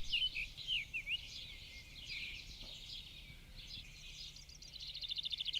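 Birds chirping: short, curving, whistled chirps, and near the end a rapid trill.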